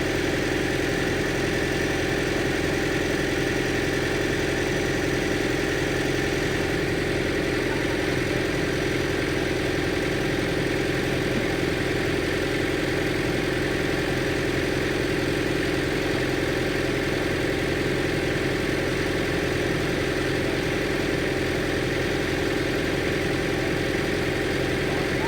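An engine idling with a steady, even drone.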